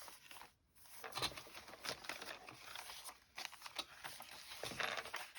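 Paper rustling and crinkling in irregular bursts as sheets of paper are handled and moved about.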